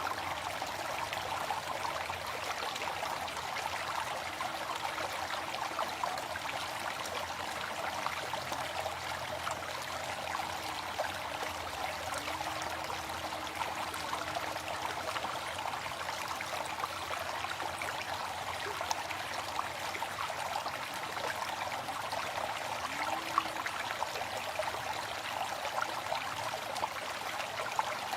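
Waterfall: water falling and splashing in a steady, even rush, flecked with small sharp splashes.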